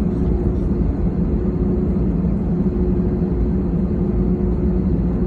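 Aircraft engines heard from inside the passenger cabin while taxiing: a steady low drone with a steady hum running through it.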